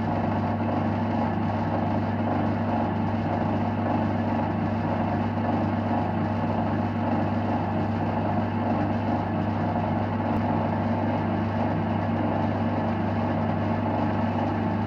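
Small metalworking lathe running steadily, its electric motor giving a constant low hum.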